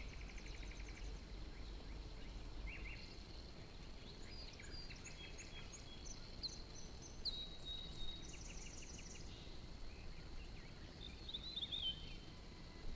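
Birds calling and singing in short, rapid trills and high chirps, with a clear whistled note about seven seconds in, over a faint low steady rumble.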